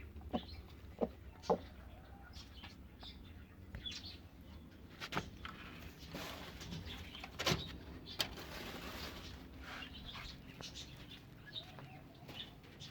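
Scattered sounds of birds kept in a pen: faint brief chirps and wing flutters among a few sharp clicks and knocks, with a soft rustle a little past the middle.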